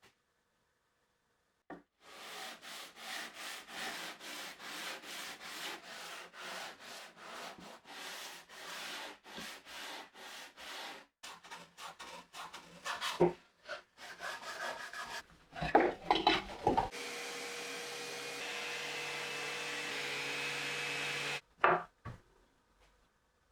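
A hand tool rubbing back and forth on wood in even strokes, about two or three a second, followed by a few sharp knocks. Then comes a steady sound with a faint tone lasting about four seconds, which stops suddenly, and two more knocks near the end.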